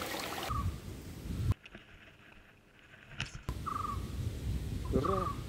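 Outdoor forest sound: rushing water stops about half a second in, followed by low rumbling background and a few short trilled bird chirps, one early and two more near the end. In the middle it drops almost to silence apart from a single click.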